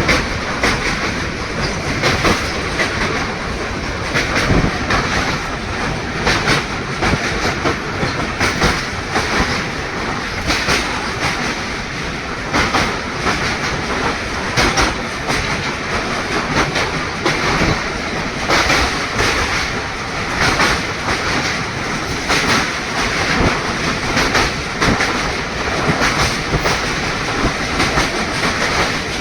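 Passenger train running on Indian Railways track, its wheels clattering over rail joints in a steady run of sharp clacks over a continuous rumble.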